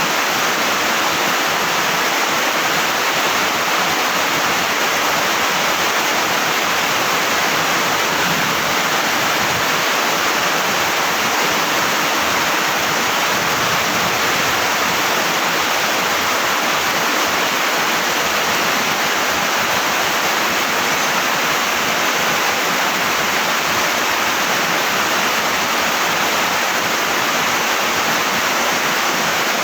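Heavy tropical rain pouring down in a steady, loud, unbroken rush.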